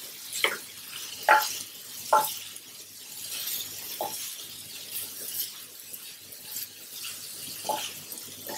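Chicken liver frying on a coated tawa over high heat: a steady sizzle under the scrapes and knocks of two wooden spatulas tossing the pieces. The sharpest knocks come in the first two seconds, then they thin out.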